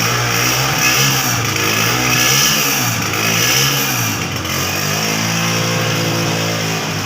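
Honda CG 125 single-cylinder four-stroke engine being revved, the pitch rising and falling several times, with a longer rev-up and drop in the second half.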